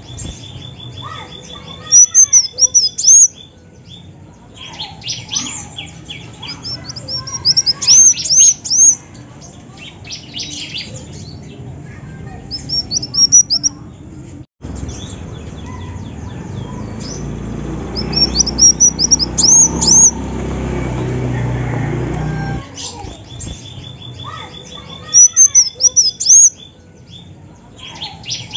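Female kolibri wulung singing: about six bursts of quick, high chirps, each a second or two long, every few seconds.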